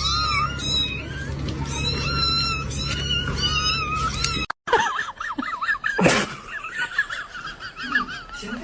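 A cat meowing repeatedly in high, drawn-out calls over a low hum. The audio then cuts off abruptly and a different clip begins: rapid, wavering high-pitched animal calls and a single thump about six seconds in.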